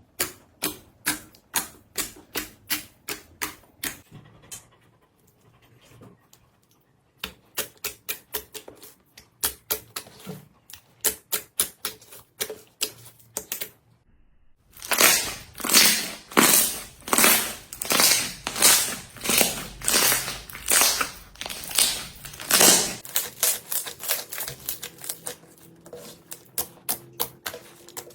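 Slime being pressed and squeezed by hand, making short crackly squishes in quick succession, about three a second. The run breaks off briefly twice as the clips change, and the squishes are loudest in the last half.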